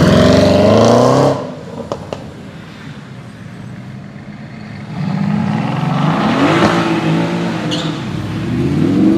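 High-performance car engine revving: a loud rev rising in pitch that cuts off about a second in, a couple of sharp clicks, then from about halfway through a run of revs rising and falling in pitch, building again near the end.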